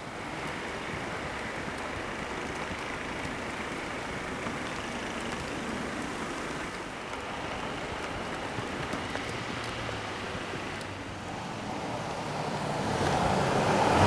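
Steady blizzard wind noise, with a motor vehicle's engine approaching and growing louder over the last couple of seconds.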